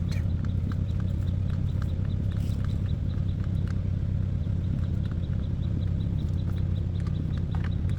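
An engine running steadily at an even idle, with scattered light clicks and taps over it.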